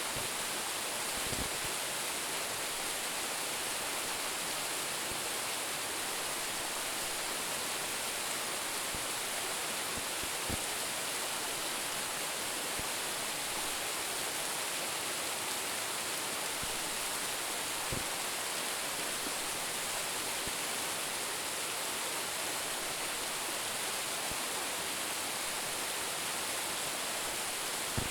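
A waterfall with a drop of about ten metres, its water falling and splashing in a steady, unbroken hiss. A few faint low knocks come through now and then.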